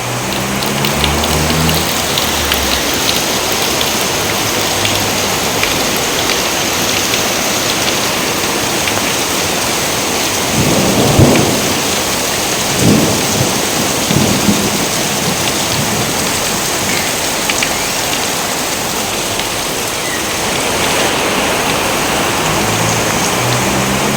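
Steady rain falling without a break, with thunder about halfway through: one loud clap followed by two weaker rumbles over the next few seconds.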